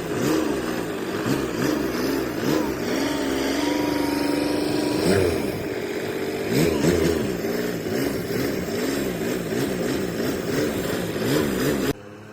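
Engine of an old Japanese tractor running after three years out of use, its revs rising and falling over and over and held high for a second or so in the middle. The engine sound cuts off suddenly near the end.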